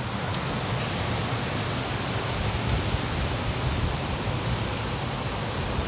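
Steady rushing noise of heavy rain, with a low rumble underneath.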